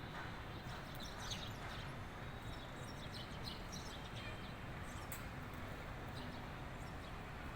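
Small birds chirping: many short, high chirps in quick irregular runs, over a steady low background noise.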